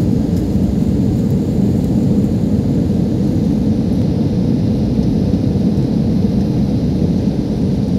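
Airliner cabin noise: a steady, loud, low rumble of the aircraft's engines and airflow heard from inside the passenger cabin, unchanging throughout.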